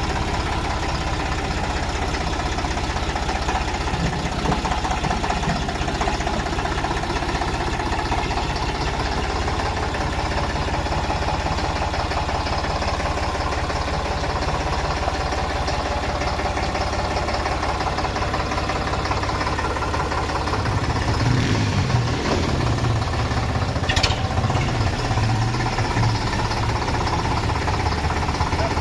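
Tractor diesel engine running steadily, with a stronger, deeper rumble from about 21 seconds in. A brief high-pitched sound comes about 24 seconds in.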